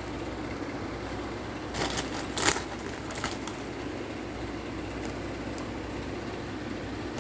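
Steady hum of room noise in a small kitchen, with a short cluster of quick handling sounds about two and a half seconds in, the loudest a sharp click.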